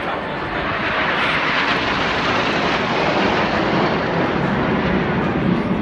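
Aircraft fly-past: a loud rushing engine roar builds as it begins and is strongest in the first half, then turns deeper in pitch as the aircraft passes.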